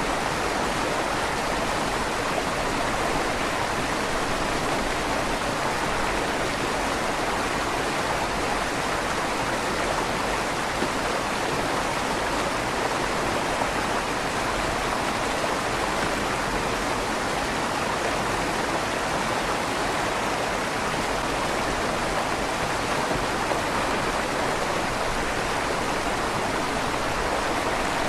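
River water rushing steadily through the tunnel under a stone bridge, with a slight echo off the stone walls.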